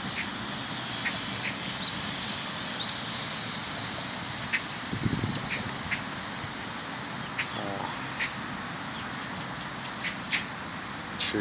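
Chorus of autumn grass insects, crickets, keeping up a steady high trill of rapid, even pulses. A few short rising bird chirps come in over it in the first few seconds.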